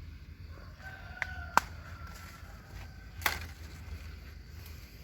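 A rooster crowing in the distance, one long call. Sharp snaps about one and a half seconds in, the loudest, and again about three seconds in.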